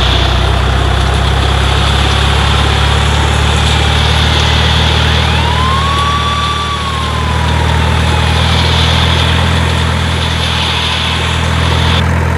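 Truck engine running steadily at idle, a deep even hum. A faint tone rises, holds and falls away in the middle.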